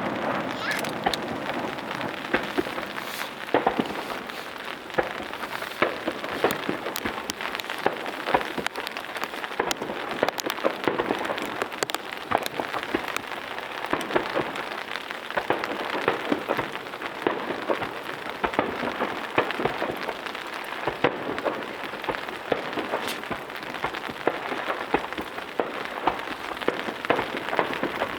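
Rain pattering steadily on nearby surfaces, a dense fine crackle of drops.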